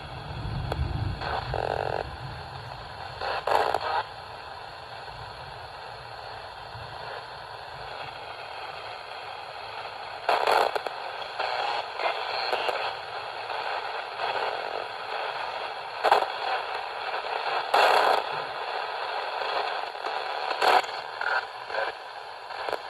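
Ghost box radio sweeping continuously through the AM band: steady static broken by short bursts of chopped station audio every few seconds. A low rumble sounds in the first two seconds.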